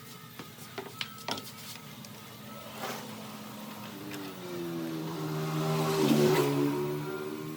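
A few sharp clicks, then a motor spinning up, rising in pitch and loudest about six seconds in before easing off.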